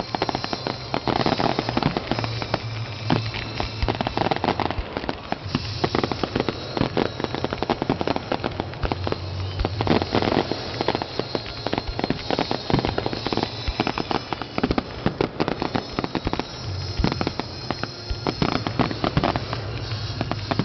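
Fireworks display with a continuous rapid run of bangs, pops and crackles, many overlapping, with no pause.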